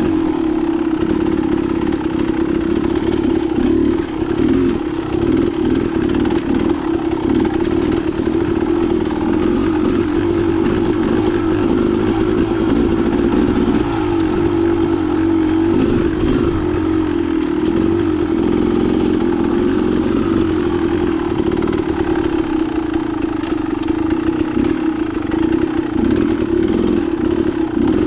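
Dirt bike engine running hard on a trail ride, its note rising and falling steadily as the throttle opens and closes, with no break.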